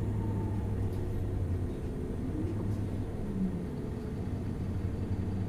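Isuzu Erga LV290N1 city bus's four-cylinder diesel engine running steadily, heard from inside the passenger cabin as a low drone.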